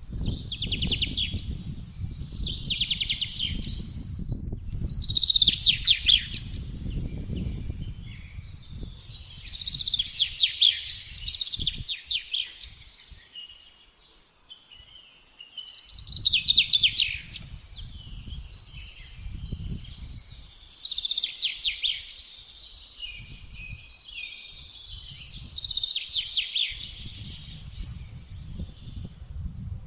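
Songbirds singing a string of short, fast trilled phrases, one every two or three seconds, over gusts of wind rumbling low. The wind dies away for several seconds in the middle, then picks up again.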